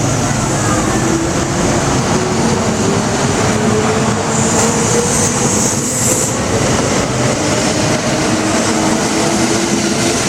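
Kintetsu 15200 series electric train pulling out of the station, its motor whine rising slowly in pitch as it gathers speed over a steady rumble of wheels on rail. A short high hiss rises in the middle.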